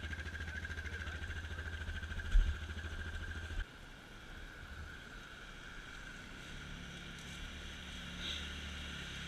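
A motor vehicle's engine running, a pulsing low drone that drops away sharply about three and a half seconds in, then a steadier engine drone builds again; a single thump about two seconds in.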